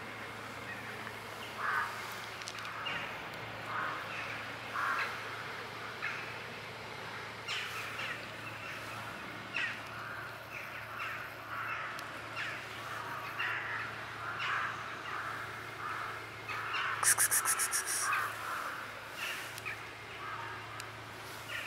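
Birds calling outdoors: short caw-like calls repeating about once a second. A quick rattling run of about eight pulses, a little before the end, is the loudest sound.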